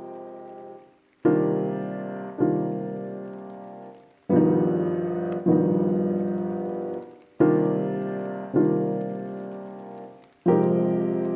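Background music: slow solo piano chords, each struck and left to ring and fade. They come in pairs, with a short pause where the sound dies away between each pair.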